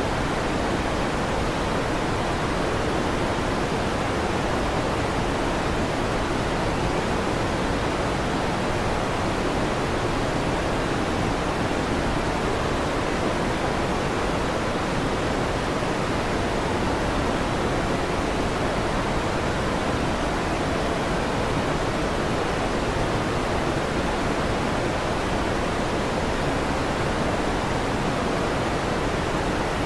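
Electric fan running: a steady, even rush of air with no change in level.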